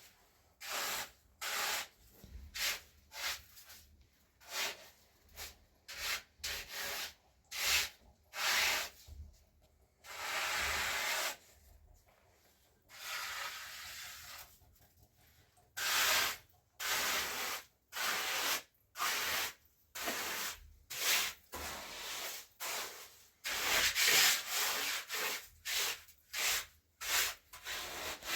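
Rhythmic hand scraping or rubbing on a hard surface, about two strokes a second, with short pauses. Two longer drawn-out strokes come near the middle.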